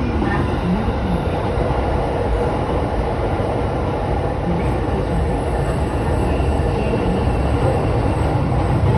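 Electric commuter train running between stations, heard from inside the carriage: a steady, even noise of wheels on rails and running gear, strongest in the low end.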